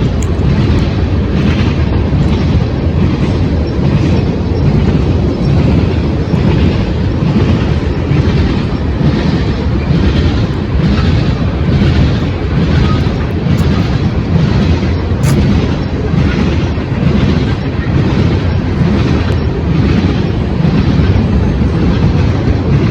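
Wind buffeting the microphone: a loud, continuous low rumble, with a regular pulsing in the higher noise about every two-thirds of a second.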